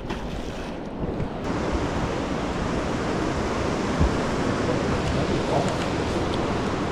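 Steady rushing of wind and water, building over the first second or so and then holding even.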